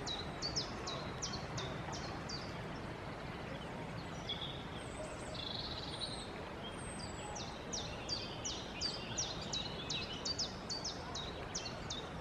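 Woodland birdsong: a small songbird repeats a short, high, downward-sliding note about three times a second in two long runs, with a pause near the middle where a few higher calls from other birds are heard.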